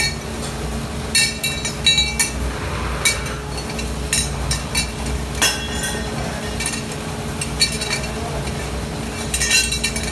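Metal parts clinking and knocking against each other at an irregular pace, with ringing after each hit, over a steady low machine hum.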